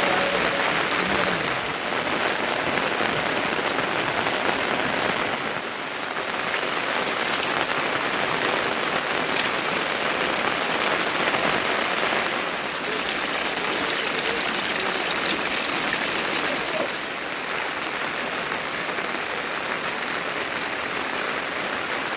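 Steady heavy rain falling, a dense even hiss of drops on surfaces that dips slightly in loudness a few times.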